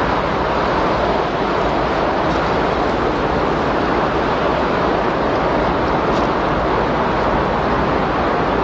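Windstorm sound: a loud, steady rush of wind noise with no gusts, breaks or distinct events.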